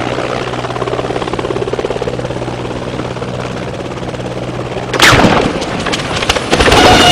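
Helicopter running with a steady hum and a fast rhythmic rotor chop. About five seconds in, a sudden loud crash-like impact, followed by a few sharp bangs and a louder burst of noise near the end.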